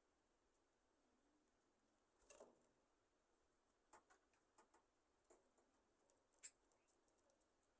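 Near silence with faint scattered clicks and ticks from a budgerigar colony settling at roost, with a brief soft rustle about two seconds in and a run of small ticks in the second half.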